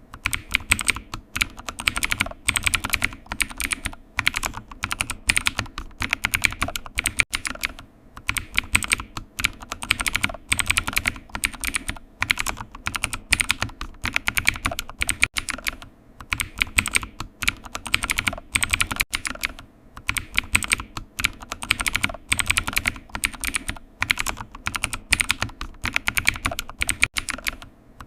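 Typing on a computer keyboard: rapid key clicks in runs broken by short pauses every few seconds.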